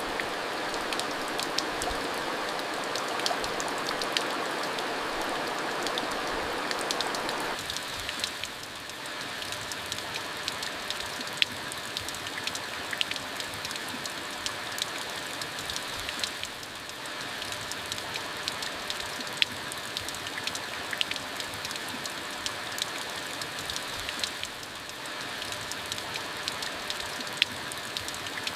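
Rain falling steadily, with many sharp drops ticking on a surface. The rain hiss is fuller for the first seven or so seconds, then eases off.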